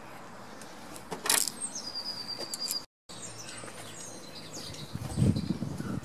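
Birds calling, with one high whistled note lasting about a second. A sharp clack comes about a second in, and a short low thump-like rustle near the end.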